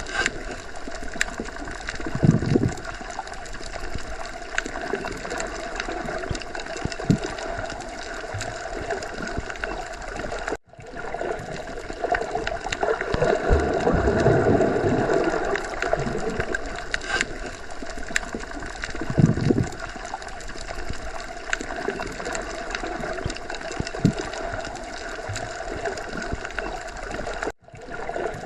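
Underwater sea ambience: a continuous wash of muffled water noise with slow, low swells. It cuts out for a split second about ten seconds in and again near the end.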